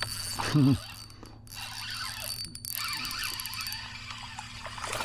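Fishing reel cranked to bring in a hooked trout, a mechanical whirring with fine ratchet-like ticking.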